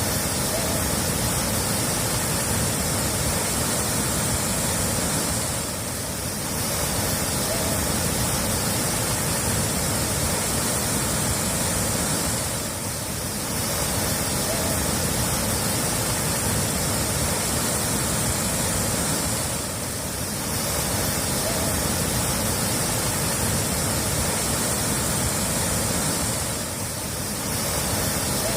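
Steady rushing water, dipping briefly in level about every seven seconds, as if a short recording is looped.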